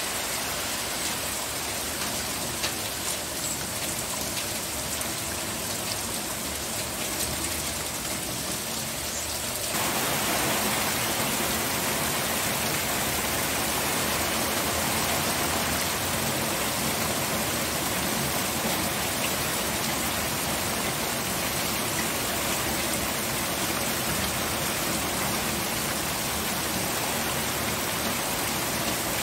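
Steady rain falling, an even hiss of drops. About ten seconds in it turns fuller and slightly louder, then holds steady.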